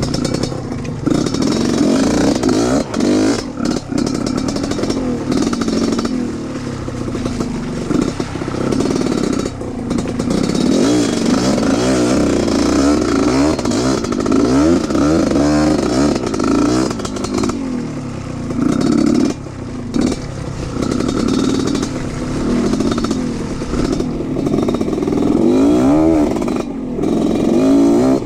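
Off-road trail motorcycle engine running loud under load, revving up and down again and again as it is ridden, with brief drops in revs now and then.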